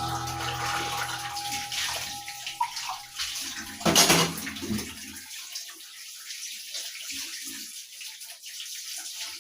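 Water pouring and splashing, with one loud splash about four seconds in, as the background music fades out.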